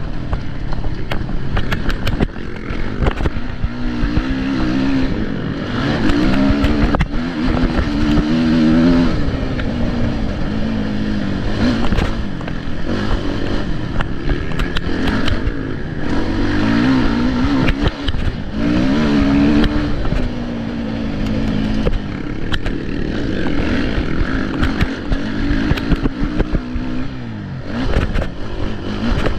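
Motocross motorcycle engines revving up and falling back again and again, rising in pitch through each gear and dropping off, with many short knocks and clatter.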